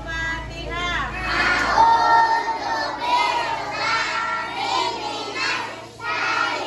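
A group of children singing together, many high voices overlapping.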